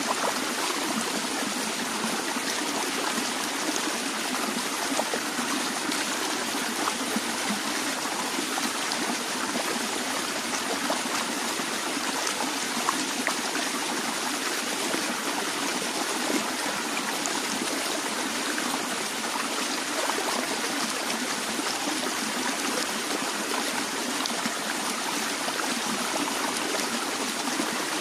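A stream of water flowing over rocks, a steady rush with small splashes and trickles throughout.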